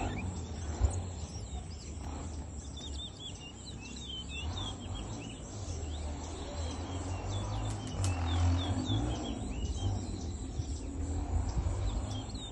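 Towa-towa (chestnut-bellied seed finch) singing: a run of quick, high chirping notes, over a steady low rumble.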